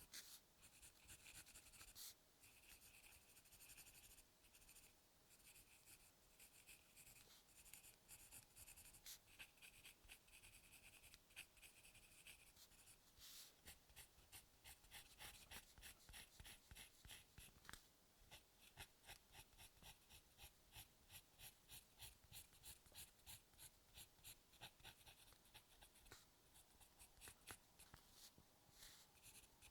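Faint, close-up scratching of drawing strokes on paper. Irregular strokes at first, then quick regular hatching at about three strokes a second through the second half.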